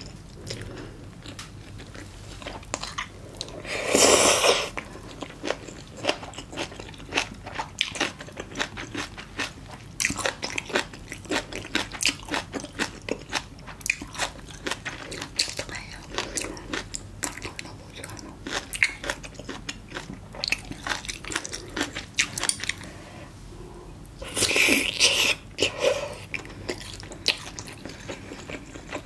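Close-miked eating of spicy braised monkfish with bean sprouts: steady biting, crunching and chewing, heard as many quick crisp clicks. Two louder rushing sounds come about four seconds in and again near the end.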